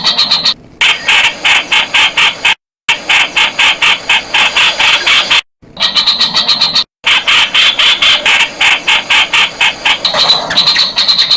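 Streak-eared bulbul calling in a rapid, loud series of sharp notes, about six a second, with the run cut off abruptly by short silences several times.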